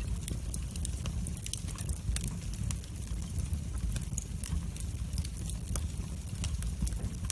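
Wood fire burning in a fireplace, with frequent irregular sharp crackles and pops over a low steady rumble of the flames.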